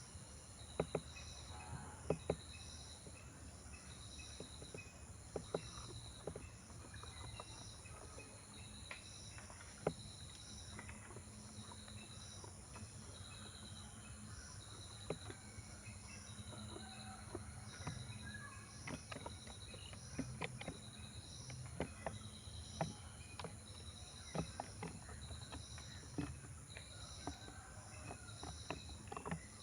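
An insect, likely a cricket, chirping in a steady rhythm about once a second over a constant high insect hum, with scattered sharp clicks and taps.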